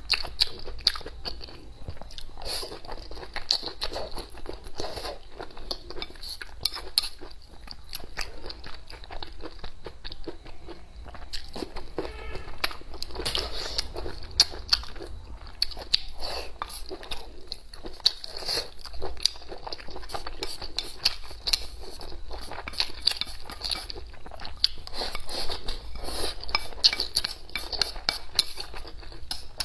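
Close-miked chewing and crunching of food, with many small irregular clicks and occasional clinks of utensils on dishes.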